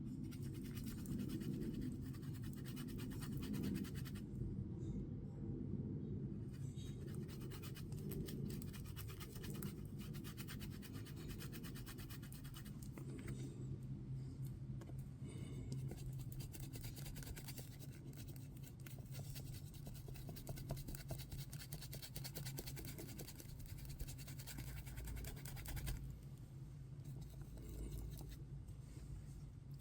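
A small brush scrubbing mica powder into a silicone mold: fast, fine scratching strokes in stretches with short pauses, over a steady low hum.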